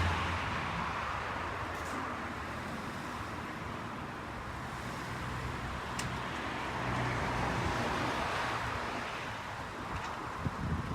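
Monkey bike's small single-cylinder engine running at steady speed on the road, under a steady rush of wind and road noise.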